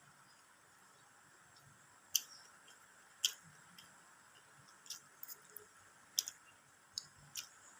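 Close-up eating sounds: about eight sharp, crisp clicks and crunches at irregular intervals, the loudest two near the start.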